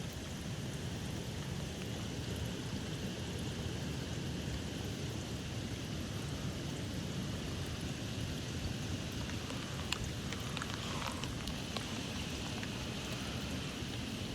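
Rain falling steadily in a gusty rain squall, with a few sharp drop taps about ten seconds in.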